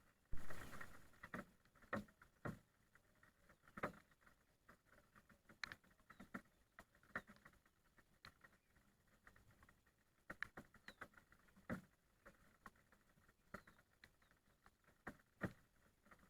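Scattered raindrops tapping irregularly on a surface, a few drops a second, with a short louder rustle just after the start.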